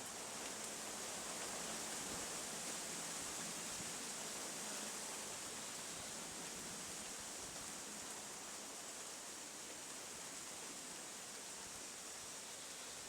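Faint steady hiss of background noise with no distinct events.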